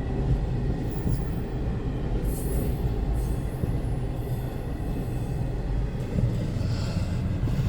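Long freight train rolling past: a steady rumble of wagons and wheels on the rails.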